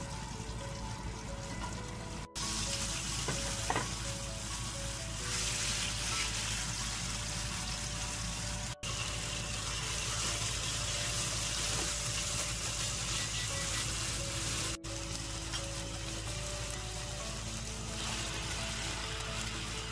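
Food sizzling as it fries in oil in a pan: vegetables, then chunks of meat, with the steady sizzle breaking off briefly three times at cuts.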